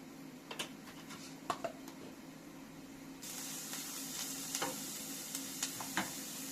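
Food frying in a pan: a steady sizzle that starts abruptly about three seconds in, with scattered clicks and taps of a utensil against the pan throughout.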